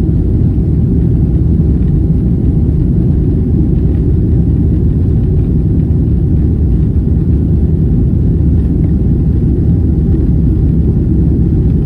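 Steady low rumble of a Boeing 777-200's engines and airflow heard inside the passenger cabin during takeoff, loud and unchanging.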